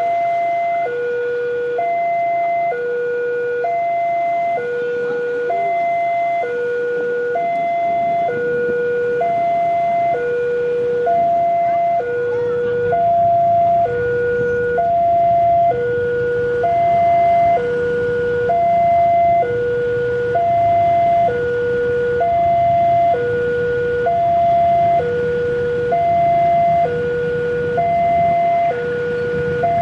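Level-crossing warning alarm sounding a two-tone high–low signal, each tone held about a second, repeating steadily. A low rumble builds under it from about halfway through.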